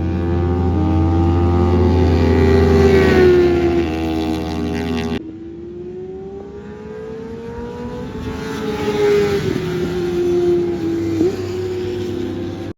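BMW S1000RR inline-four sport-bike engine at high revs, its pitch climbing and falling as it accelerates and shifts through the gears. The sound cuts off suddenly about five seconds in, then comes back quieter and builds up again.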